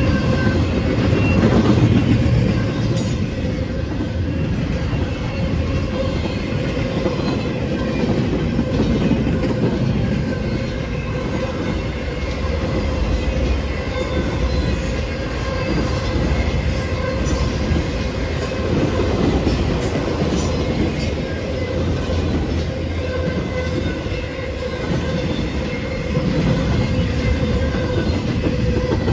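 A train rolling past on the rails, its cars giving a steady heavy rumble with faint steady high tones over it.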